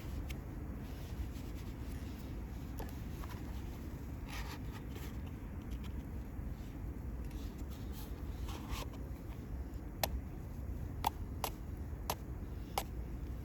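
Wood fire burning with a steady low rumble, crackling softly, then giving a run of sharp pops in the second half, about one every half second to second.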